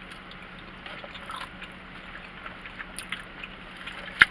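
People chewing and eating a burger and fries, with small scattered crackles and ticks and one sharp click near the end.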